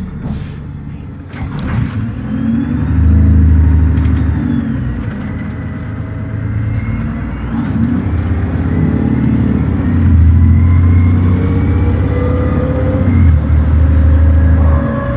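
Dennis Trident ALX400 double-decker bus's freshly refitted replacement engine pulling hard under kickdown, heard on board. The engine drone grows loud a few seconds in, and in the second half its pitch climbs steadily as the revs rise toward the redline.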